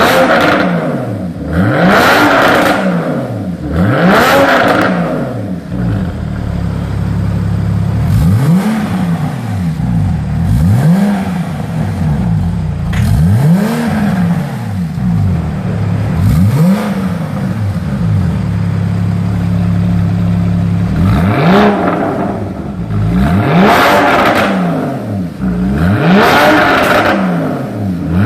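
Porsche Boxster 981's flat-six engine breathing through an Armytrix catback exhaust, revved up and let fall again and again, with short spells of steady running between the revs.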